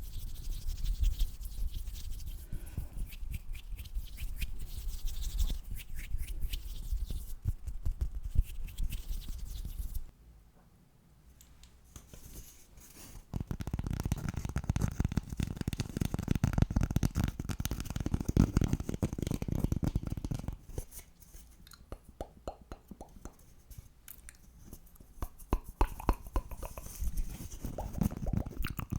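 Close-miked ASMR tapping and mouth sounds: fast runs of clicks and taps, pausing for a few seconds about ten seconds in and thinning out in the last third.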